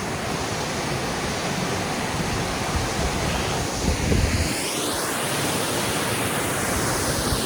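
Steady rushing of a waterfall's cascading water, with a few low buffets about four seconds in.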